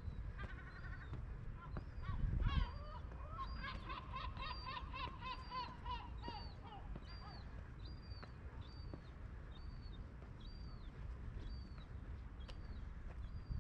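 Birds calling: one repeats a short high note over and over, about once every two-thirds of a second, while another gives a fast chattering series that falls away in the first half. A brief low rumble comes about two seconds in.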